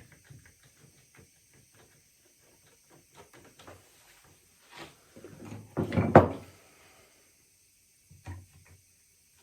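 Wooden seat slats being handled and set in place on a chair frame: light wooden clicks and knocks, with a louder wood-on-wood clatter about six seconds in.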